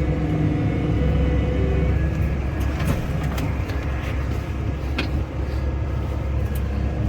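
Case 140 tractor's diesel engine running steadily under way, heard from inside the cab, with a few sharp clicks or rattles near the middle.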